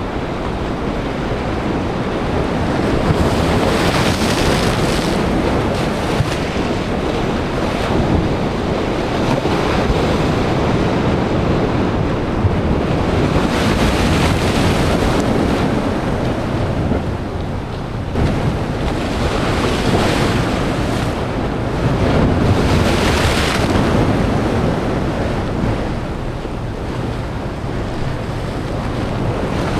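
Sea waves breaking hard against coastal rocks, a steady wash of surf with hissing spray that surges with the bigger waves several times.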